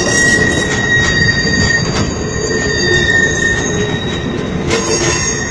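Railroad passenger cars of a circus train rolling past close by: a steady low rumble of steel wheels on rail with a high, thin wheel squeal held over it, and a couple of clacks over rail joints.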